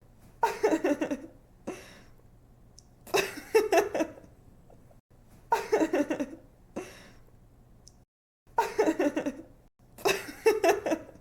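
A young woman laughing in a giggly way: about five bursts of roughly a second each, each a quick run of ha-ha pulses, with shorter titters between. A faint low hum runs underneath.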